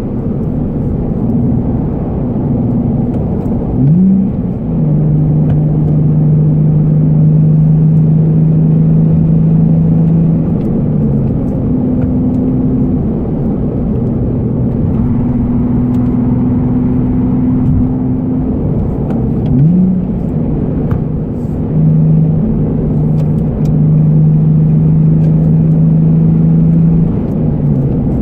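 Nissan Fairlady Z34's 3.7-litre V6 with an aftermarket be free muffler, heard from inside the cabin while cruising gently: a steady exhaust drone that changes pitch through the run, with the revs climbing sharply and briefly about four seconds in and again near twenty seconds.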